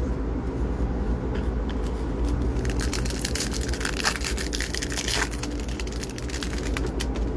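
Crackling and clicking from baseball card packs and cards being handled, most crowded in the middle, over a steady low hum.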